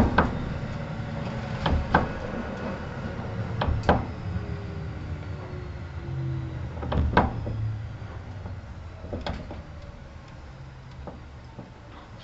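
Kintetsu 1810-series electric train heard from inside the car, slowing down: wheels knock over rail joints at uneven intervals above a low running rumble, while a faint whine falls in pitch, and the sound eases off toward the end.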